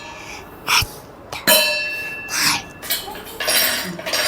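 Separate ringing clinks of a struck glass or metal vessel, about one a second, each leaving a lingering ring: strikes given one at a time for the children to count. A longer, rougher clatter comes near the end.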